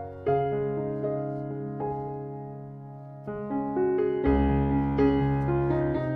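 Background music: a slow, gentle solo piano piece with sustained chords and a soft melody.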